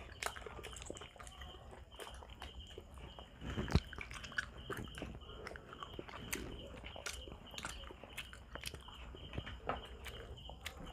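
Close-miked eating sounds: chewing and lip smacking on grilled barbecue skewers and rice eaten by hand, with many small scattered clicks and one louder knock a little under four seconds in.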